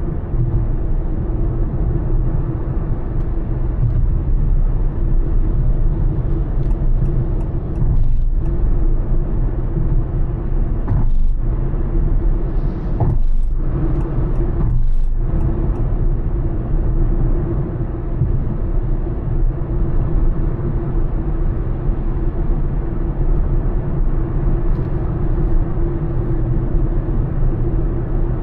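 Honda Elevate SUV cruising at highway speed: a steady low rumble of engine and tyre-on-road noise with a constant drone, dipping briefly a few times around the middle.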